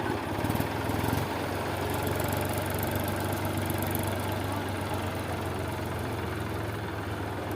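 Tractor diesel engine running steadily with an even, low, pulsing hum.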